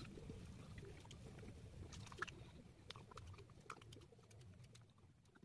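Faint eating sounds of a man chewing rice and smoked pork eaten by hand, with a few small clicks; they die away near the end.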